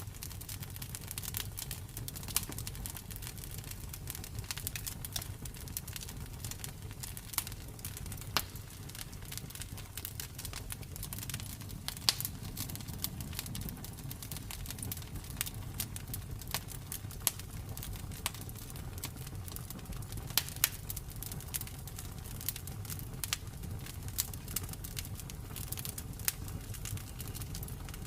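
Wood campfire crackling, with many quick irregular snaps and a few louder pops over the low steady rumble of the flames.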